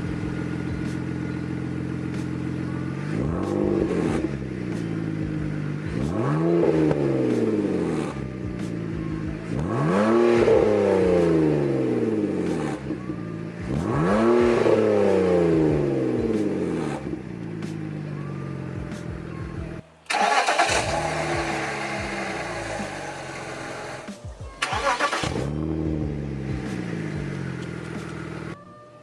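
BMW Z4 straight-six engine with the exhaust muffler deleted (straight pipe), idling and revved four times, each rev rising and falling back to idle. About two-thirds of the way through the sound cuts abruptly to a noisier, rougher engine run with one more short rev.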